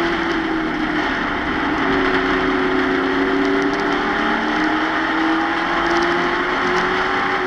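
Race truck's engine at sustained high revs, heard from inside the cab, with heavy wind and road noise. The pitch dips slightly near the start, then climbs again from about two seconds in and holds, as the driver lifts and gets back on the throttle around the track.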